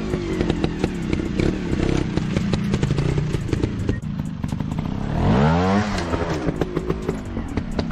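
Dirt bike engine running, with a rising rev about five seconds in, amid many sharp clicks and clattering.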